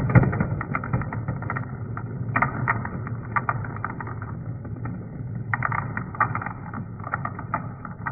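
Marbles rolling down a wooden ramp: a steady low rumble with many irregular clicks and knocks as they hit the track and each other.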